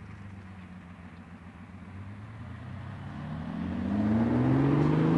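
Lamborghini Countach 5000 Quattro Valvole's V12 engine running at a low steady note, then accelerating from about halfway, rising in pitch and growing much louder toward the end.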